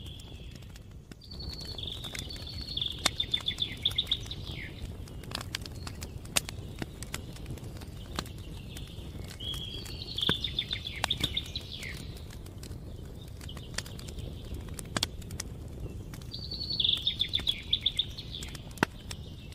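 A songbird sings the same short, trilled song three times, about seven seconds apart. Behind it a campfire crackles with scattered sharp pops.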